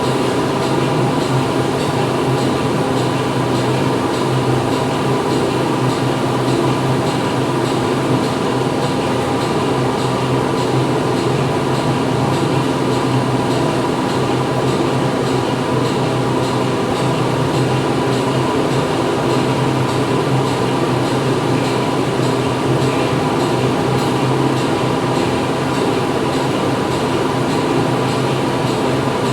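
Factory machinery running steadily: a dense, even mechanical din with several held hum tones and no pauses or impacts.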